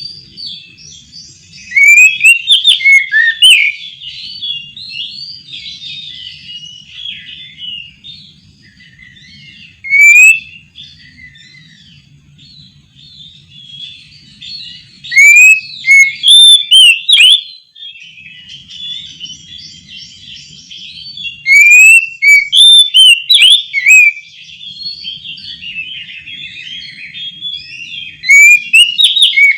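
Oriental magpie-robin (kacer) singing: loud bursts of sweeping whistled phrases every few seconds, with quieter continuous twittering between them, over a faint low hum.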